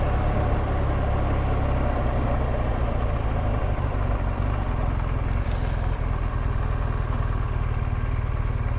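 BMW R1200GS Adventure's flat-twin boxer engine running steadily at low revs.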